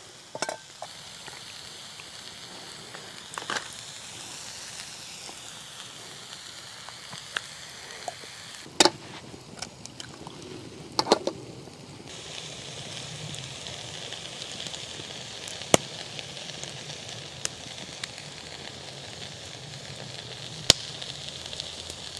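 Food frying in a large frying pan over a wood fire, a steady sizzle that grows louder about halfway through. A few sharp pops and a brief clatter cut through it.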